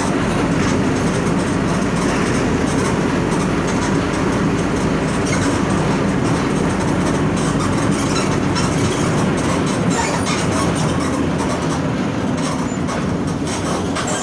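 Mercedes-Benz OF 1722M bus's OM 924 LA 4.8-litre four-cylinder diesel running steadily while the bus drives, a constant low rumble with many small rattles over it.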